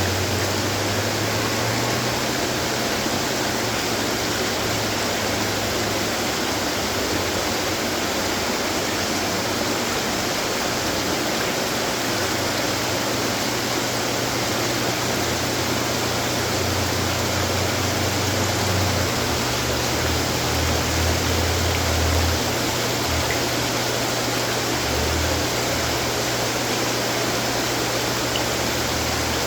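Water running and splashing in many decorative garden fountains: a steady, even rush of falling water, with a low rumble that comes and goes underneath.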